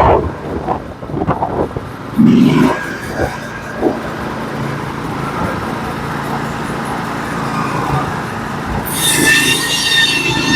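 Norwood HD36v2 portable bandsaw mill running steadily, with a loud thump about two seconds in. Near the end a high squeal of several steady tones sets in as the resharpened band cuts into the log.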